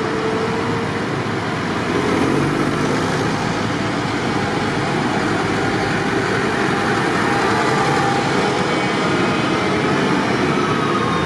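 Tractor engines running steadily, a dense mechanical din that rises a little about two seconds in.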